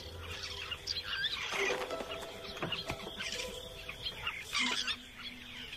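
Birds chirping, with many short, high calls scattered throughout.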